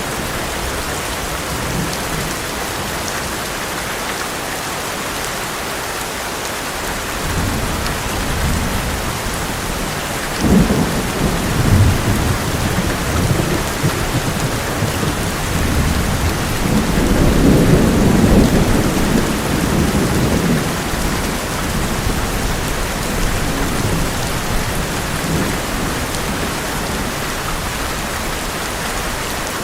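Heavy rain falling steadily on an old metal roof, with thunder. Low rumbling builds about a quarter of the way in, a sudden louder clap comes about a third of the way in, and the longest, loudest rumble comes a little past the middle before the rain is left on its own again.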